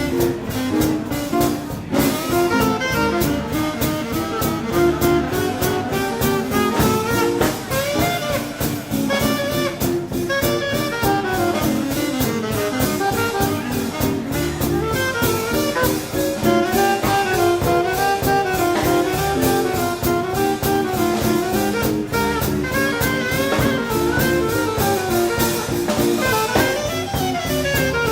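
A live swing combo playing an instrumental passage: a saxophone-led horn line over upright bass and drum kit with a steady beat.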